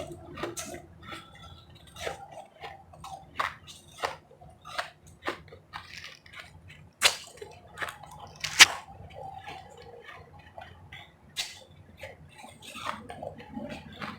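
Powdery refrozen ice being bitten and chewed: a run of irregular sharp crunches, the two loudest about seven and eight and a half seconds in.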